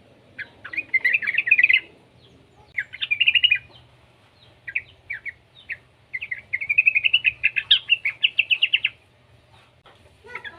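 A young yellow-vented bulbul (trucukan) singing in bursts of quick, bubbling chattering notes. There are two short bursts, then a few single notes, then a longer fast run of about three seconds past the middle.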